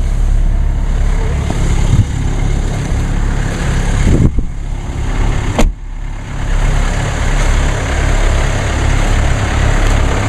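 Mercedes diesel engine idling at fast idle just after a cold start, a steady low running sound. A couple of knocks come around four seconds in, and a sharp thump about five and a half seconds in.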